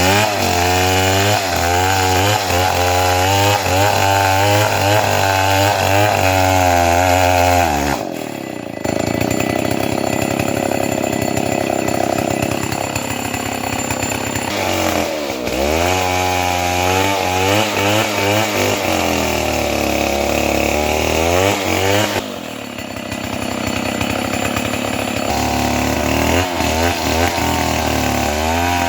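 Chainsaw engine running and cutting timber, its pitch rising and falling as it works under load. The sound changes abruptly about eight seconds in and again about twenty-two seconds in.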